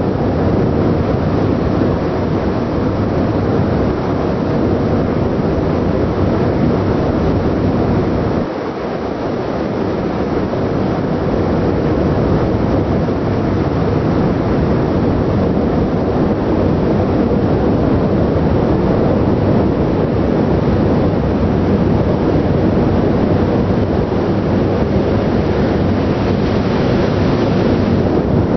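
Steady, loud rush of wind buffeting the microphone over the low running noise of a ship at sea, with a brief drop about eight seconds in.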